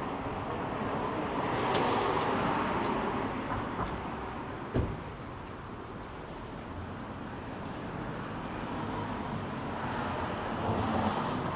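City street traffic: cars passing on the road, swelling and fading twice, with one sharp thump about halfway through.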